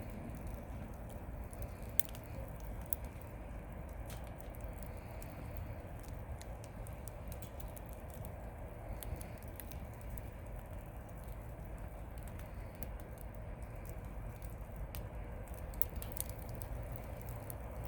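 Wood campfire crackling, with irregular small pops and snaps over a steady low rumble, a few sharper snaps standing out.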